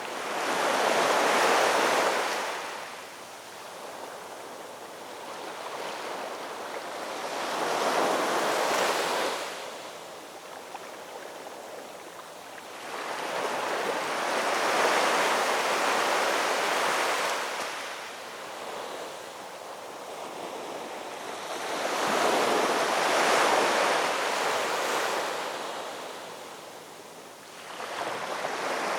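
Ocean waves breaking and washing up the shore, swelling and receding in slow surges about every seven to eight seconds.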